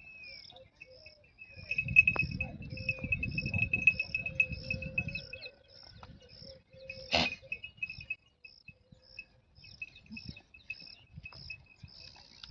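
Insects chirping: short high chirps repeat about twice a second over a steady high trill. A low rustling noise comes in the first half, and there is one sharp click about seven seconds in.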